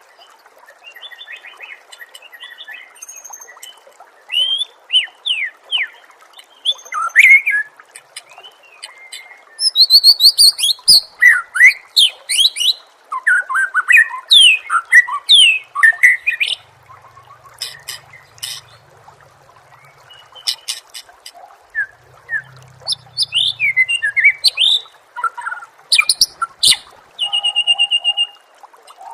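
Songbird singing a fast, varied song of whistles, trills and sharp chirps in bursts with short pauses, loudest in the middle.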